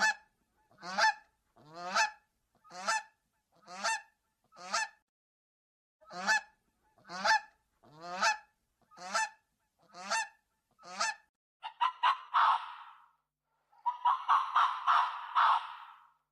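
An animal giving a series of loud honking calls, about one a second, then faster runs of calls packed close together near the end.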